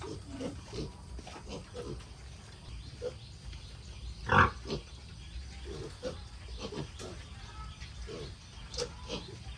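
Sow and piglets grunting over and over as they feed, with one loud squeal about halfway through.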